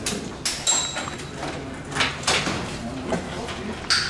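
Irregular knocks and clatter of metal parts and tools being handled during HVAC equipment work, with one short ringing metallic clink about two-thirds of a second in.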